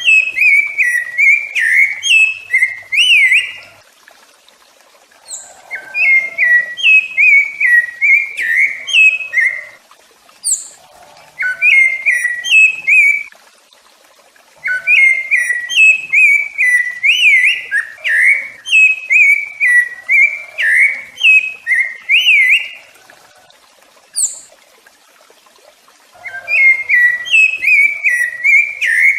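Rufous-bellied thrush (sabiá-laranjeira) singing: phrases of clear whistled notes that glide up and down. There are five phrases, each a few seconds long, separated by short pauses. A few thin, high notes sound between the phrases.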